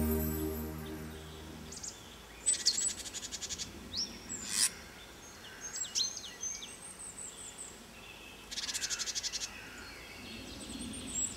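Small songbirds calling: short, high chirps that sweep downward, and two fast rattling trills about two and a half and eight and a half seconds in. Background music fades out in the first two seconds.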